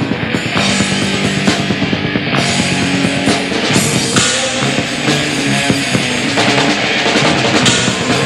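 Dark metal band playing live: distorted electric guitars and a drum kit at full volume, captured as a raw room recording of a rehearsal.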